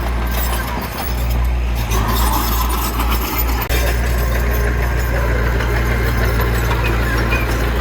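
Heavy diesel engine of earth-moving machinery running steadily with a deep, low drone, which dips briefly about three and a half seconds in.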